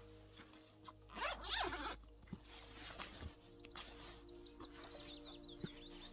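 Jacket zipper pulled open with a quick zip and rustle of clothing about a second in, followed by scattered clicks of handling. From about halfway a small bird sings a fast run of high, repeated downward-slurred notes.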